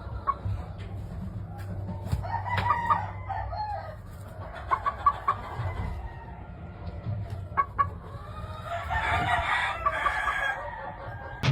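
Gamefowl roosters crowing and chickens clucking, with one longer crow about nine seconds in.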